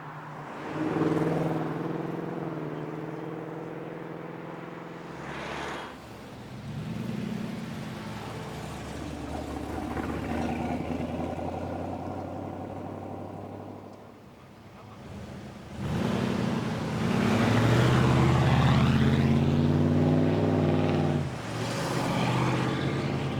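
Several cars pulling away one after another, their engines and exhausts revving and accelerating. The loudest pass comes near the end, with the engine note climbing.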